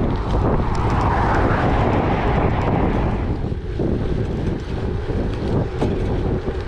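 Wind buffeting the microphone over the rumble of gravel-bike tyres rolling on a gravel track, with scattered small clicks of stones.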